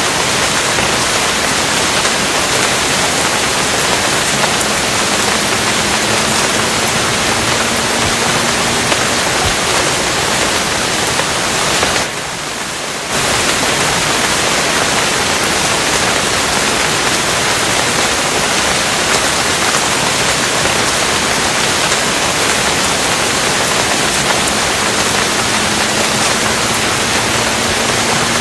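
Steady rain, a dense even hiss with no separate drops standing out. It dips in level for about a second roughly twelve seconds in.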